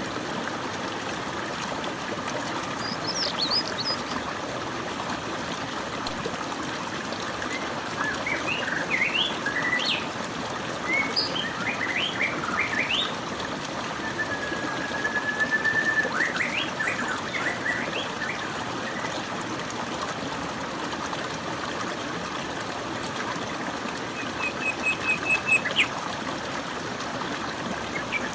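Flowing water running steadily, with birds chirping at intervals over it: scattered short chirps, one held whistled note midway, and a quick run of repeated notes near the end.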